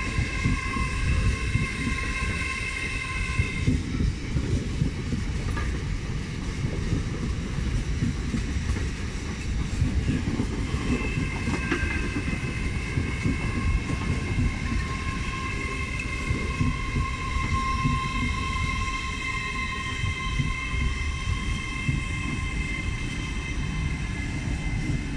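LNER Class 801 Azuma electric train running into the platform and slowing, a steady rumble of wheels on rails. Over it sits a high-pitched squeal of several held tones, which fades out about 4 s in and comes back from about 11 s on.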